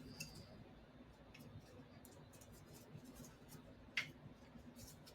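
Near silence in a small room, with a few faint clicks and one sharper click about four seconds in.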